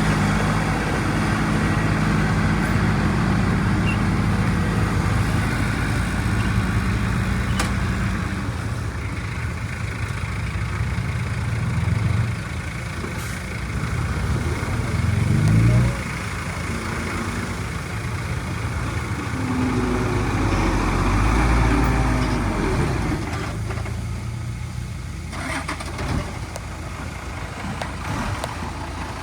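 Heavy diesel engines of earthmoving machinery running under load, with the engine note shifting and revving up about halfway through.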